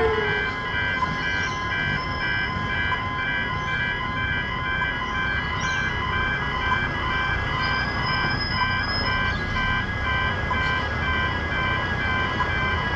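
Level crossing alarms sounding continuously: electronic pedestrian gate alarms beeping in an even, rapid pulse of several high tones, loud enough to drown out the crossing's Barker Technics e-bells. Road traffic, including trucks, rumbles underneath.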